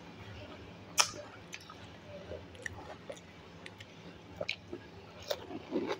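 Close-miked wet chewing and mouth smacks from eating dahi bhalla, soft lentil dumplings soaked in yogurt, with scattered clicks; the sharpest and loudest click comes about a second in.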